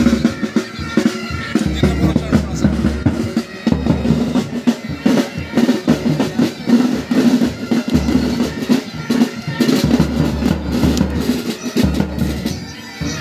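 Military pipe band playing: snare side drums and bass drum beat out a march rhythm over the steady drone of Highland bagpipes.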